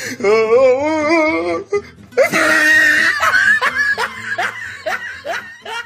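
Comic laughter sound effect over music: a long wavering laugh, a loud noisy burst about two seconds in, then a run of short rising laughs, about three a second.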